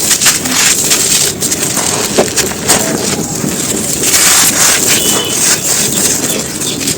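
Dry crumbly clumps being crushed and broken apart by hand: a dense, continuous crunching and crackling with many sharp little snaps.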